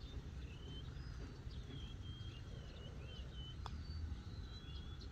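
Birds singing, a string of short whistled phrases that slide up and down, over a low steady rumble. About three and a half seconds in comes a single sharp click, a putter striking a golf ball.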